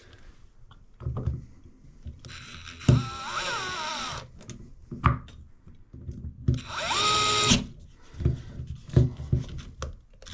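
A power drill/driver runs twice: first for about two seconds, starting about two seconds in, with its whine wavering in pitch, then for about a second near the middle. Sharp knocks and clicks of handled parts fall around and between the two runs.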